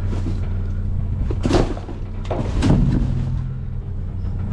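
Small truck's engine idling steadily, with two loud knocks about a second apart near the middle.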